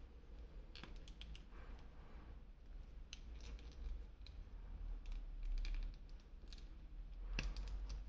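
Irregular light clicks and taps from hands handling a plastic action figure and its packaging, in scattered clusters, with a sharper run of clicks near the end.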